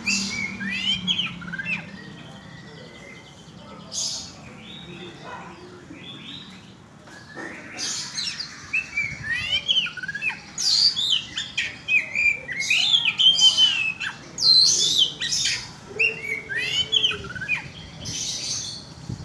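Oriental magpie-robin (kacer) singing: a varied run of quick whistles, chirps and harsh notes, sparse at first and becoming dense and loud from about eight seconds in.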